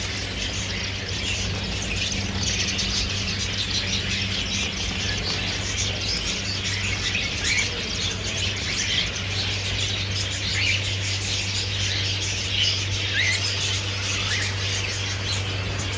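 A flock of small caged birds chirping and squeaking all at once, a dense, unbroken chatter of many short calls, over a steady low hum.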